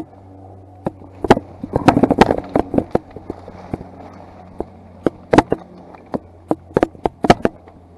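Airsoft guns firing sharp cracking shots, irregular single shots and short strings, with a dense flurry about two seconds in and loud single shots later on.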